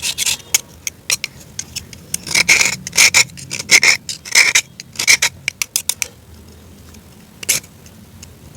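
Crisp, dry crunching in a quick series of short crunches, about five in the middle. A lull follows, then one more crunch near the end.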